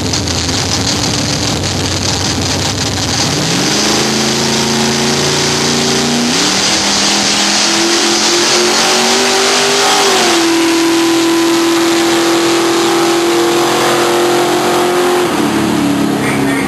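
Drag car's engine accelerating hard down the strip: its pitch climbs, drops and climbs again at a gear change about six seconds in, holds high, then falls near the end as the driver lifts off.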